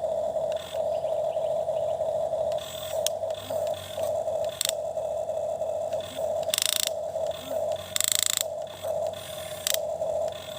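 Toy excavator's small electric motor whining in short runs that stop and start as the arm moves. A few brief scraping bursts come through, the loudest just past the middle.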